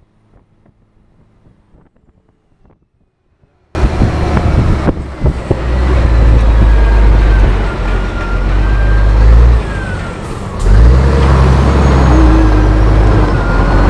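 Scania R420 truck's diesel engine pulling under heavy load, a loud low rumble with a wavering whistle over it. It cuts in suddenly about four seconds in after a stretch of quiet, dips briefly near ten seconds, then picks up again.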